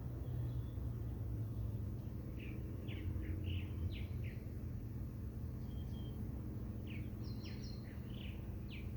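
Small birds chirping in short, quick downward-sliding notes, in two clusters, over a steady low rumble.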